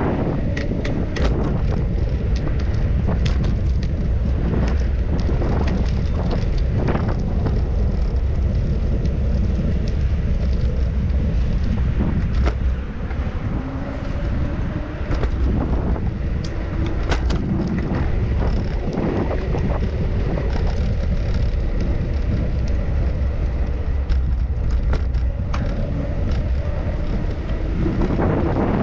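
Riding a bicycle: steady wind rumble on the microphone with tyre and road noise, and frequent small clicks and rattles from the bike.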